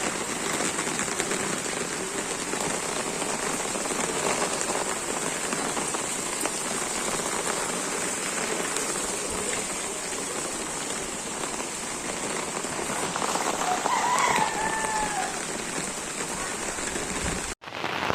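Heavy rain falling steadily, a dense even hiss of rain on surfaces, with a short wavering call heard about fourteen seconds in.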